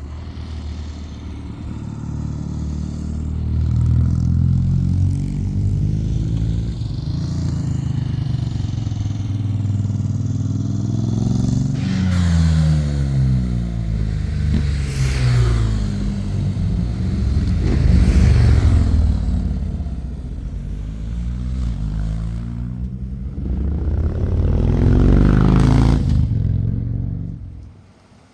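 Several motorcycles passing one after another at speed, engines revving, the pitch of each dropping as it goes by. The engine sound drops away sharply near the end.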